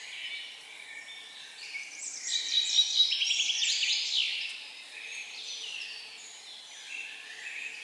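Forest birds singing, with one loud song phrase containing a fast trill a couple of seconds in, over a steady background of other birds chirping.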